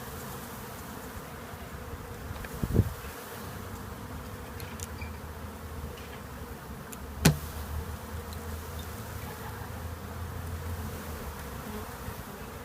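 A mass of honeybees buzzing in a steady hum, with two sharp knocks about three and seven seconds in.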